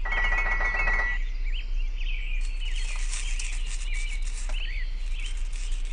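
Small birds chirping in short, scattered calls, with a steady low hum underneath.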